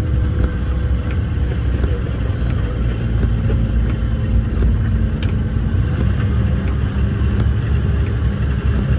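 Off-highway logging truck's diesel engine and drivetrain running steadily under way, a deep rumble heard inside the cab, with light rattles and one sharp click about five seconds in. The engine note shifts slightly about six seconds in.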